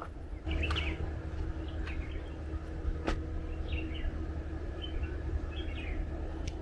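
Small birds chirping in short scattered calls over a steady low rumble, with a faint hum that starts about half a second in and a few sharp clicks.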